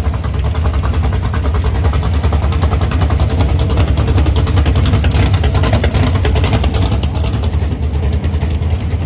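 Gasser hot rod's engine running loud through its exhaust, with rapid, even firing pulses. It gets louder for a couple of seconds near the middle, then settles back.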